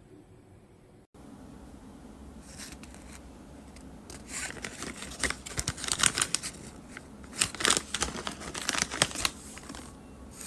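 Crinkling and crackling of a plastic treat packet being handled and torn open, in irregular bursts that grow louder a few seconds in.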